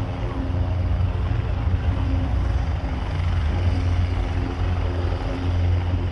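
Military helicopter flying off after taking off again, its rotors and turbine engines making a steady low rumble.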